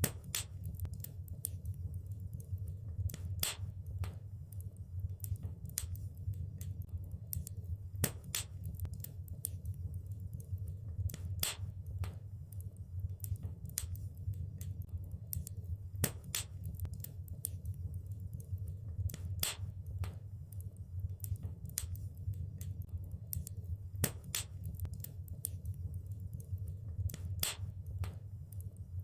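Wood fire in a fireplace crackling, with many small sharp snaps and a louder pop every four seconds or so over a steady low rumble.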